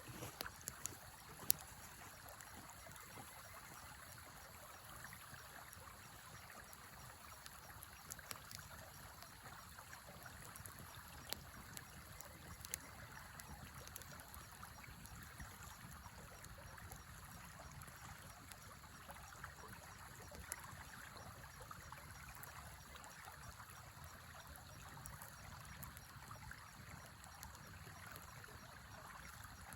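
Faint steady rushing of a river, with a campfire giving a few sharp crackles and pops, the loudest about a second and a half in.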